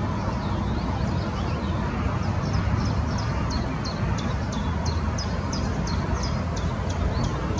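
A small songbird calling: soft high twittering at first, then from about two seconds in a regular run of sharp high notes, two or three a second. A steady low rumble runs underneath.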